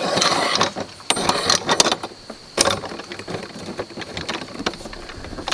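Metal parts of an Alaskan chainsaw mill clicking and clinking as a bolt is worked through the frame by hand: a quick run of sharp knocks and rattles in the first two seconds, then one sharp click and scattered lighter taps.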